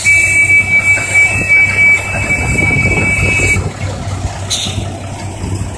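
Heavy truck or excavator engine running under a steady, high-pitched warning buzzer that sounds continuously and cuts off suddenly about three and a half seconds in. A short burst of noise follows about a second later.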